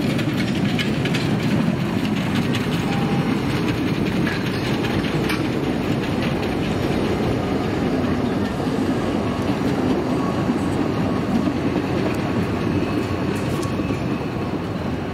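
Narrow-gauge park railway train running with a steady low rumble, its wheels clicking over the rail joints, most thickly in the first half.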